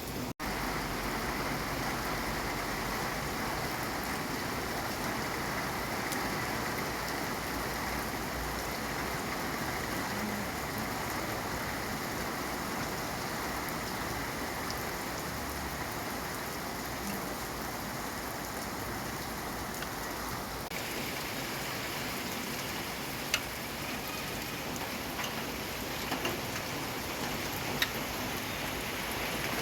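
Steady rain falling, an even patter with a few sharper single drop hits near the end. The rain gets slightly brighter and hissier about two-thirds of the way through.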